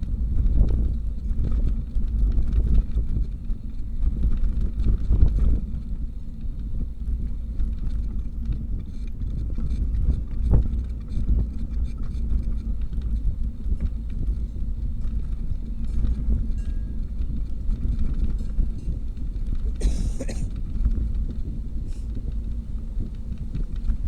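Riding a bicycle: steady low wind rumble on the microphone with scattered clicks and rattles, and a short hiss about twenty seconds in.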